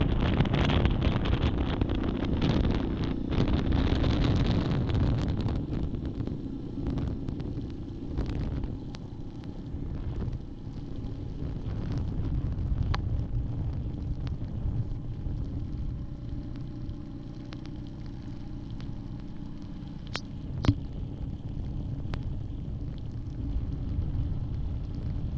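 Yamaha Grizzly 700 ATV's single-cylinder engine running steadily while riding, with wind buffeting the microphone, heaviest over the first few seconds. A single sharp click about twenty seconds in.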